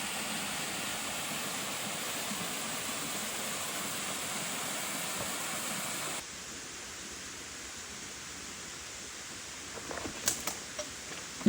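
Steady rushing of a large jungle waterfall with plenty of water. About six seconds in it drops to a quieter, duller rush, and a few faint clicks come near the end.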